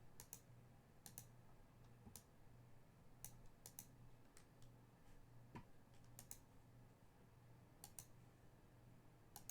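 Near silence with faint, sparse clicks at a computer, mostly in quick pairs about once a second, over a low steady hum.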